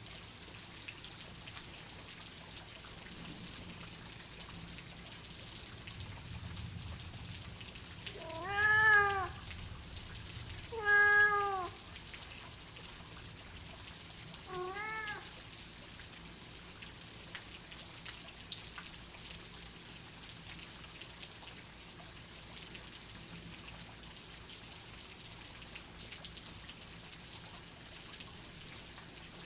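Steady rain hiss with a domestic cat meowing three times, about eight, eleven and fifteen seconds in: the first two meows are loud, the third softer. A faint low rumble sits under the rain around the first meows.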